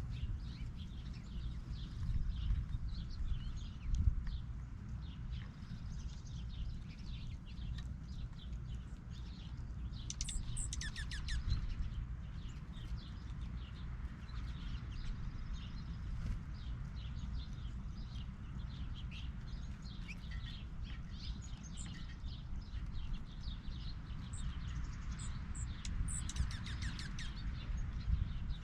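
Several songbirds chirping and twittering over a steady low rumble, with a quick falling trill twice, about a third of the way in and near the end.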